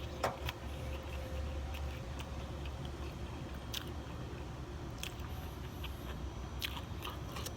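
Close-miked chewing and mouth smacking on fried chicken, a scatter of short wet clicks, over a steady low hum.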